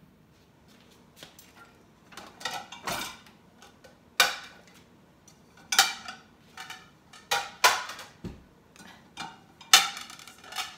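Dishes and cutlery clinking and clattering as clean dishes are unloaded from a dishwasher and put away. The sharp knocks come irregularly from about two seconds in, each with a short ring.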